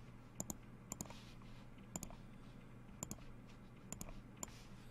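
A series of light, sharp clicks, roughly one a second and several in quick pairs, over a faint steady low hum.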